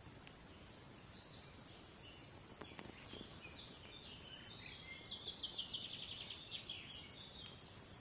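Faint birdsong: scattered high chirps, then a fast trill of rapidly repeated notes about five seconds in. A few soft clicks near the three-second mark.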